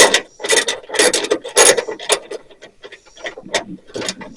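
Hand ratchet wrench cranked in short rasping strokes, about two a second, turning a fastener on a truck hood's repair brace.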